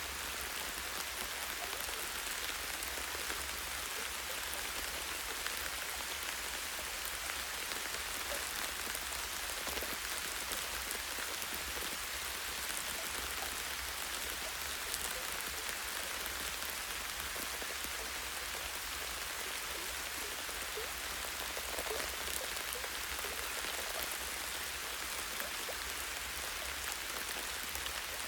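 Steady light rain, drops pattering on leaves and a tree branch, with many small individual drop ticks over an even hiss.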